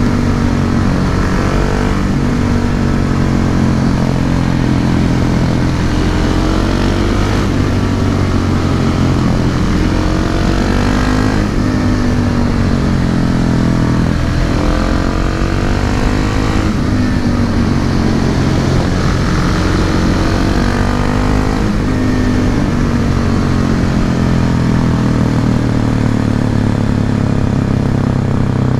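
Husqvarna 701 Supermoto's single-cylinder engine through an SC Project slip-on silencer, on the move. The revs rise and fall again and again, then hold steadier in the last several seconds.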